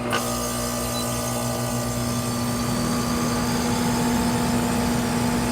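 Electric pool pump motor running steadily, with a constant hum and a mechanical whir.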